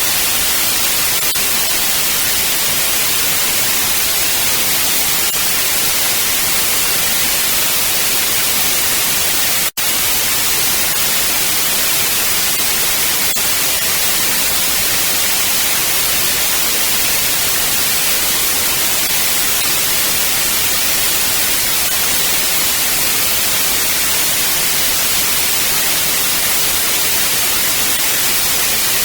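Digitally generated white noise test signal: a steady hiss spread evenly across the frequencies, with one momentary dropout about ten seconds in.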